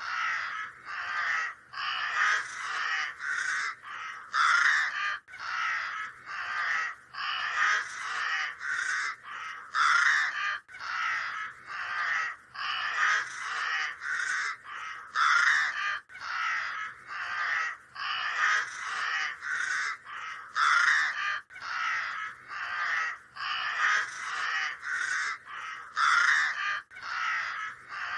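A large flock of birds calling as it flies to roost: a dense, unbroken chorus of short calls, several a second.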